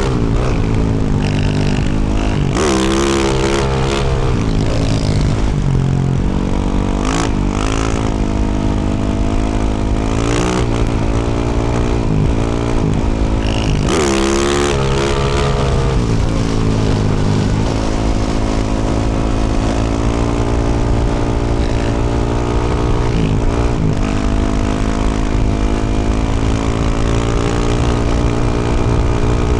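2024 Yamaha YZ450F's single-cylinder four-stroke engine through a Yoshimura RS-12 exhaust, ridden under throttle: the revs rise and fall several times, then hold a steadier cruise about 17 seconds in.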